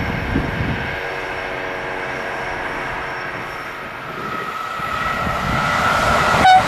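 Electric train running along the line, its noise with steady tones fading away, then a second electric train approaching and growing louder with a steady whine. A brief loud blip near the end.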